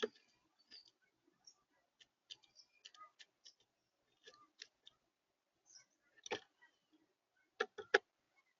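Birds or squirrels pecking and scratching at a bird feeder, picked up by the feeder camera's microphone. The sound is irregular sharp taps and clicks, the loudest just at the start and a pair close together near the end.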